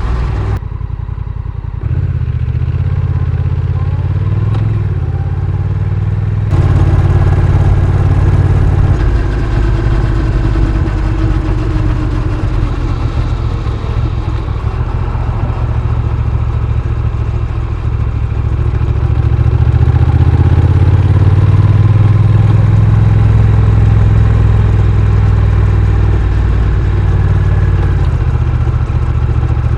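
Honda Rebel 1100's parallel-twin engine running while the motorcycle is ridden, its level dipping briefly just after the start, stepping up about six seconds in and swelling again about two-thirds of the way through as the throttle changes.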